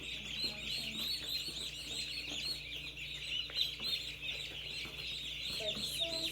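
A brood of day-old meat chicks peeping continuously, many high, overlapping cheeps.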